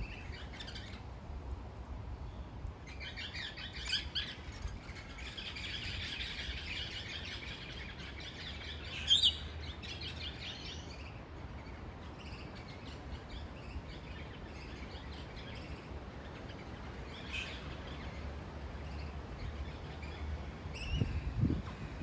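Wild birds chirping and calling: a dense stretch of chatter for several seconds in the first half, with one sharp, loud call near the middle, then only scattered calls. Wind rumbles on the microphone near the end.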